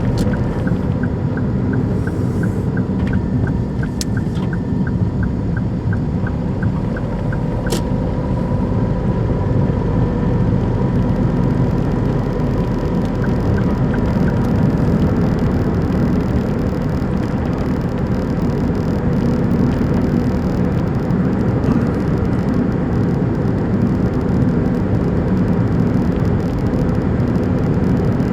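Daihatsu Move Custom (L175S) running with its 660 cc three-cylinder engine, a steady engine-and-road noise made louder by a torn, worn-out engine mount bushing. For the first several seconds a light ticking sounds about three times a second, with two sharp clicks about four and eight seconds in.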